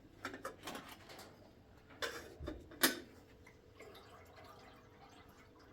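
A few short, sharp knocks and clicks in the first three seconds, the loudest about three seconds in, then a faint steady hum.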